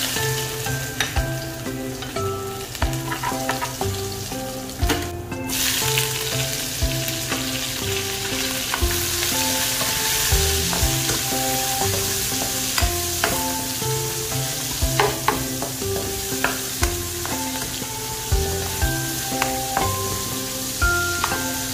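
Garlic and sliced red onions sizzling in hot oil in a nonstick wok, with a metal spoon stirring and clicking against the pan. The sizzle grows louder about six seconds in.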